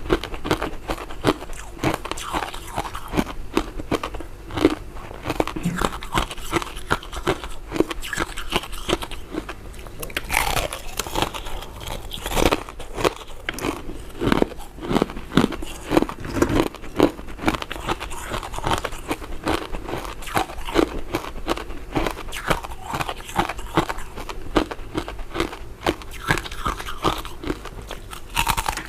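Close-miked eating of powder-coated mint sweets: continuous biting and chewing, a dense run of short sharp clicks and crunches.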